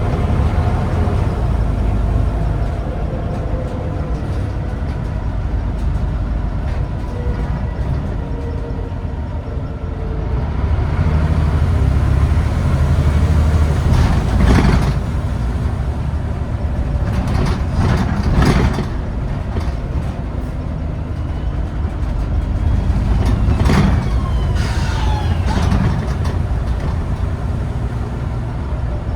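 Scania N94UD Omnidekka double-decker bus heard from on board: its diesel engine runs steadily while the bus drives, with a few short, sharp noises about halfway through and again near the end.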